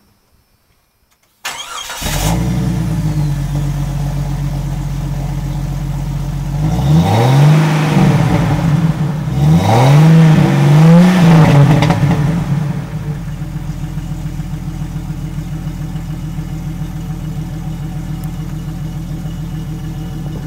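1996 Jeep Cherokee XJ engine starting about a second and a half in and running through a 2.5-inch Rusty's Offroad exhaust with a Cherry Bomb Pro muffler. It idles, is revved three times in quick succession around the middle, then settles back to a steady idle.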